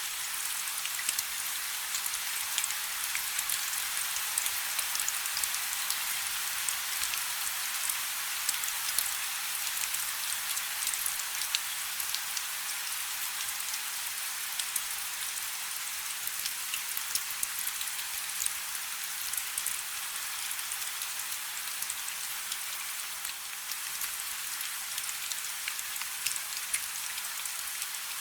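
Light rain falling steadily, a continuous hiss thick with small drop patters.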